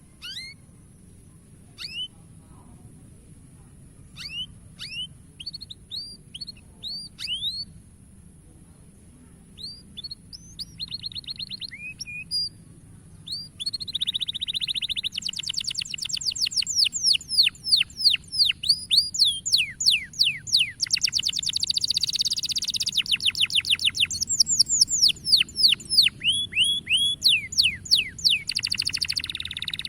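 Domestic canary singing. It starts with scattered short chirps and rising whistles, then about halfway in breaks into a long, louder run of rapid trills and rolling notes.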